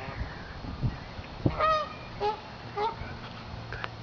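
Geese honking: one loud honk about one and a half seconds in, followed by a few shorter honks.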